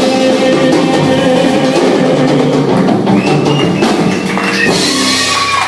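Live rock band playing the instrumental close of a song: drum kit hits over long held notes, with no singing.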